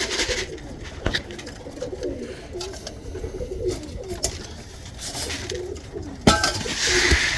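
Tippler pigeons cooing in the loft, with a few sharp knocks and a brief rustle near the end.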